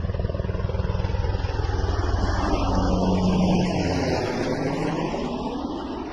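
A vehicle passing close by with a fast low pulsing. It grows louder to a peak about three and a half seconds in, its tone drops as it goes past, and then it fades away.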